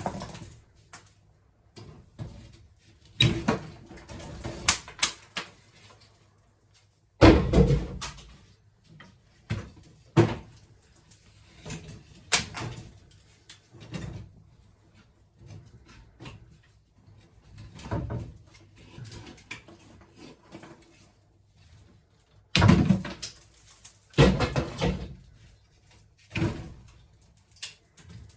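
Irregular knocks, thumps and rustling as old debris is pulled out of a ceiling cavity and handled, with heavier thuds about seven seconds in and again near the end.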